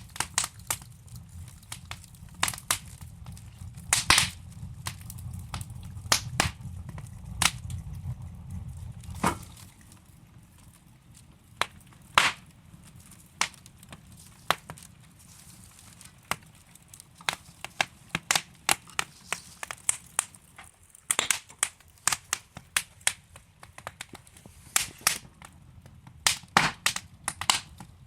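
Burning logs in a fireplace crackling, with irregular sharp pops of varying loudness throughout. A low rumble under the crackle for the first third stops abruptly about nine seconds in.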